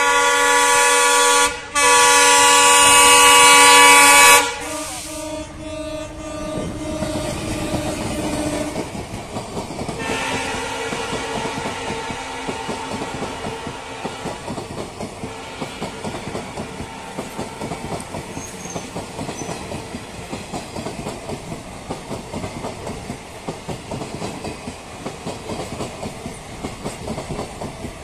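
Train horn sounding a long, loud blast, briefly broken about a second and a half in and cut off about four seconds in, followed by a fainter, lower horn tone that dies away by about nine seconds. Then the train's coaches run past, wheels clattering over the rail joints in a steady rhythm that slowly fades.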